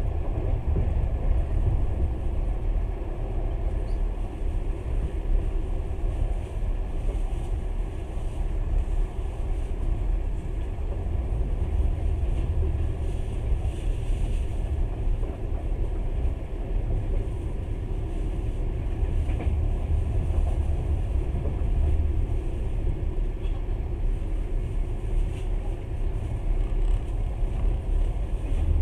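Passenger train running along the line, heard from inside the carriage: a steady low rumble of the wheels on the rails.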